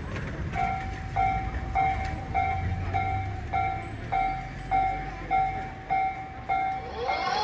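Japanese railway level-crossing warning bell ringing in an even repeating pattern, about one and a half strikes a second, over a low rumble. A rising whine begins near the end.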